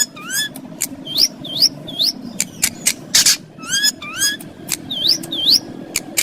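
Indian ringneck parakeet (rose-ringed parakeet) calling: a run of short, rising squawks, mostly in pairs. Sharp clicks fall between them, and a louder harsh screech comes about halfway through.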